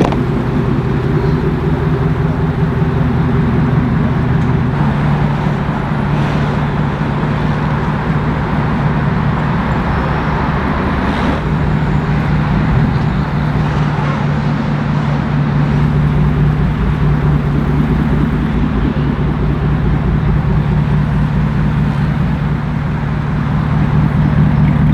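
Devel Sixteen prototype's test engine running steadily at low revs, a loud even drone whose pitch shifts slightly a few times.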